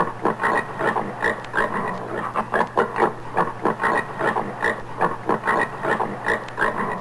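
Common warthog grunting in a quick, steady series of short grunts, about three a second.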